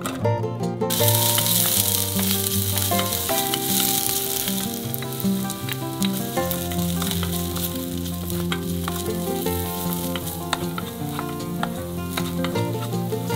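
Sliced green onions sizzling in hot oil, the sizzle starting about a second in with many small crackles. Later, chili flakes are stirred in with a wooden spoon to draw out scallion-chili oil.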